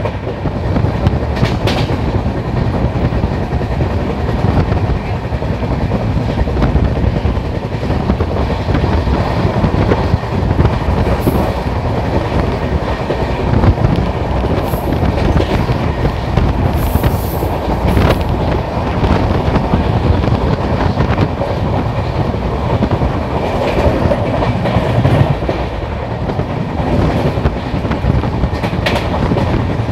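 Passenger coaches running at speed on electrified track, heard from an open coach door: a steady, loud rumble of wheels on rail with wind rush. A few sharp clicks of the wheels on the track stand out, one near the end as the train crosses pointwork.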